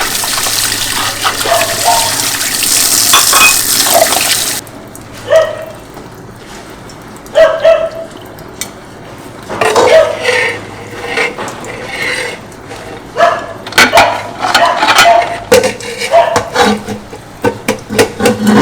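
Kitchen tap running into a sink, shut off about four and a half seconds in, then dishes and cutlery clinking and clattering as they are washed and handled.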